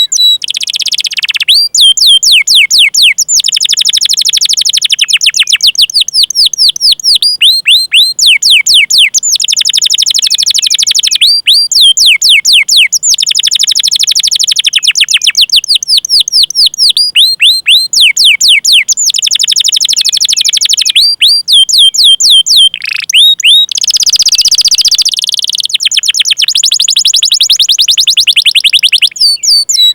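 Domestic canary singing long rolling trills: fast runs of repeated down-slurred chirps, phrase after phrase with short breaks, and a harsher buzzing tour a little after the middle.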